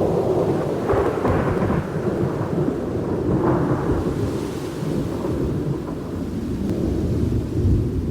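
Thunder rumbling, a long low roll that stays loud throughout, with sharper crackles about a second in and again around three and a half seconds.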